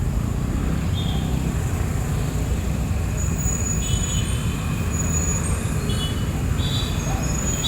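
Street traffic noise: a steady low rumble of passing vehicles, with several brief high-pitched tones in the second half.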